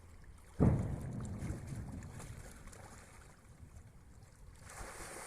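A person plunging into pond water with a sudden splash about half a second in, then water churning and sloshing that fades over a couple of seconds.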